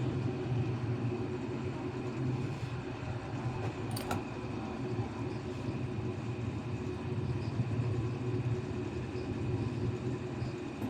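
A steady low machine hum, with one sharp click about four seconds in.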